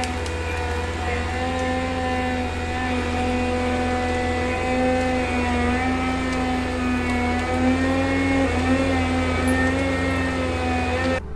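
Heavy machine's diesel engine running steadily under load, a droning tone with a slight wavering in pitch over a low rumble. It cuts off abruptly near the end.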